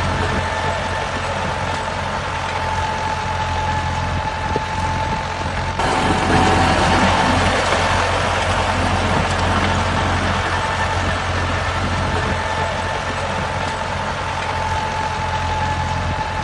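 A motor running steadily with a constant hum and a thin steady whine. It grows louder about six seconds in, then settles back.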